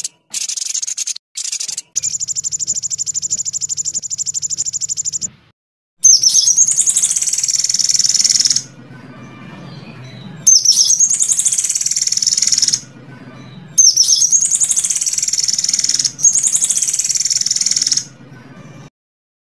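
Edited songbird masteran recording: rapid, high-pitched trills and chattering songbird calls, spliced into clips that start and stop abruptly. A loud, fast, sweeping trill comes three times, with quieter chattering between.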